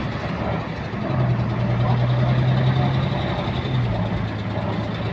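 Diesel engine of a Wright-bodied Volvo double-decker bus running under way, with a repetitive clicking that keeps pace with engine speed. About a second in the engine's low note grows stronger, then drops slightly near the four-second mark.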